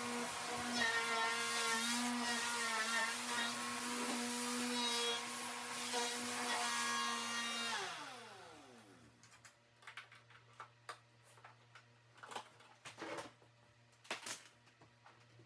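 Vacuum cleaner running with a steady motor whine, then switched off about eight seconds in, its motor pitch sliding down as it spins to a stop. A few light clicks and knocks follow.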